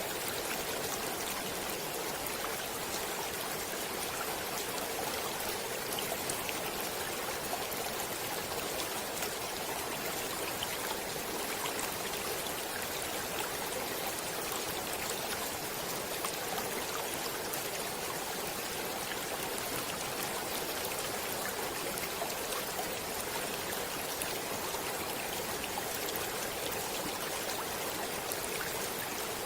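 Shallow stream or river water flowing steadily over stones, a continuous babble of small splashes and trickles.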